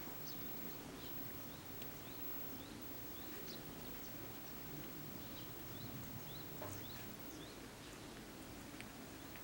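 Faint chirping of small birds, many short rising notes a fraction of a second each, scattered throughout, over a steady low hum.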